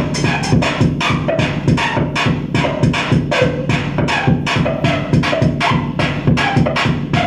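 Loud live electronic noise music: rapid, irregular pulses of harsh noise over a steady low drone.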